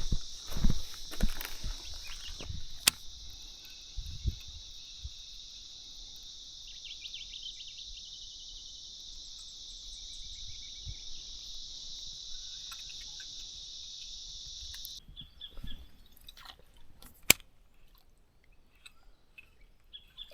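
Steady high-pitched insect chorus that cuts off suddenly about fifteen seconds in, with crunching footsteps over the first few seconds and scattered bird chirps after the insects stop.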